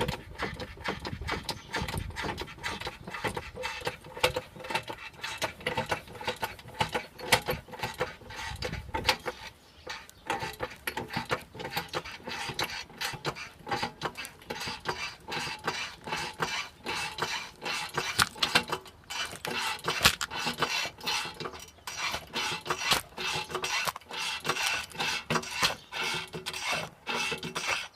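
Rapid, irregular metallic clicking and clattering of hand work on car parts, like tools being used. A low rumble underneath stops about nine seconds in.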